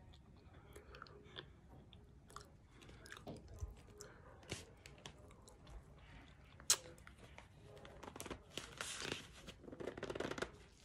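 A person chewing a mouthful of cornstarch: crisp crunching and crackling bites in the mouth, growing louder and denser about eight seconds in and again near the end.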